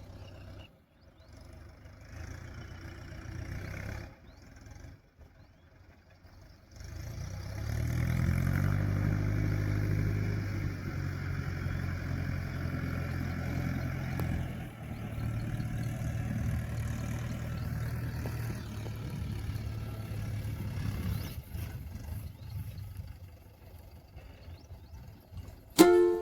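Mahindra YuvoMAT 585 tractor's diesel engine running. It is faint and broken for the first few seconds, then revs up about seven seconds in and holds a steady working note.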